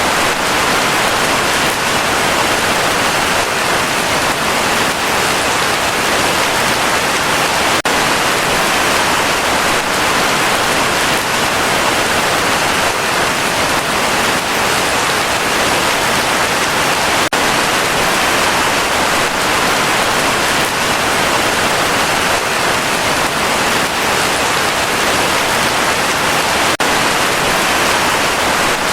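Heavy rain falling in a steady, even downpour, with faint brief clicks about every nine to ten seconds.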